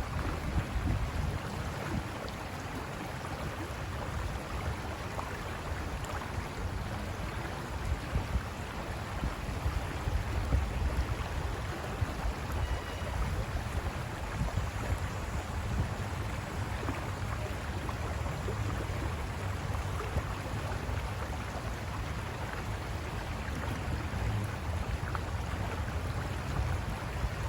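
River water rushing and splashing over rocks, a steady rushing noise with a low churning rumble underneath.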